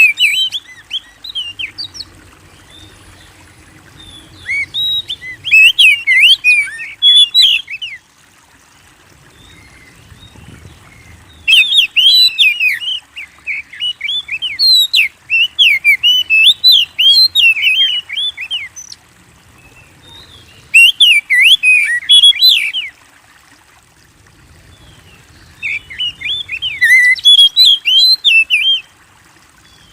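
Oriental magpie-robin (kacer) singing vigorously: bouts of rapid, varied whistled phrases lasting a few seconds each, separated by short pauses.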